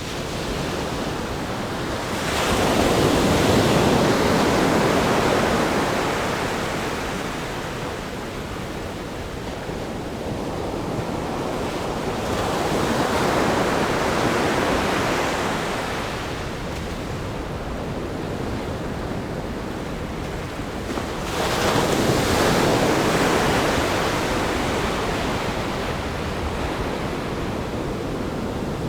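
Ocean waves breaking on a rock groin and washing up a sandy beach. Three waves break, about two, twelve and twenty-one seconds in; each one surges and then fades slowly into a steady wash of surf.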